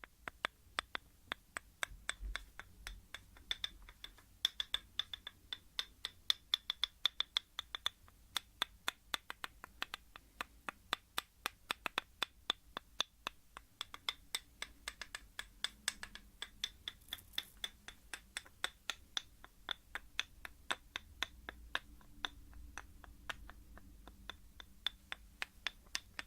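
Steady, unhurried tapping on a hard object, about three sharp taps a second, each with a slight ring.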